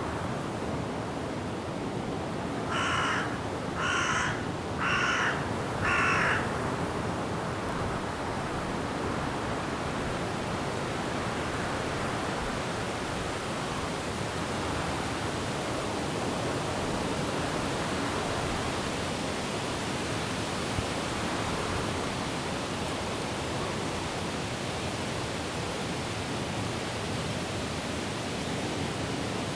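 Steady wind rushing through forest trees, with four loud crow caws about a second apart a few seconds in.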